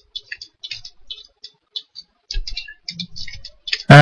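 Computer keyboard being typed on: a fast, irregular run of light key clicks.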